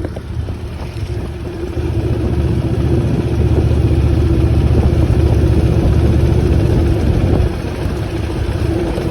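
Motorcycle engine running under way with wind rush. The low engine rumble grows louder about two seconds in and eases back near the end, over a steady hum.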